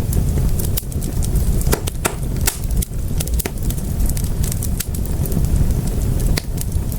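Wood fire crackling in a fireplace: irregular sharp pops and snaps, several a second, over a steady low rumble of burning flames.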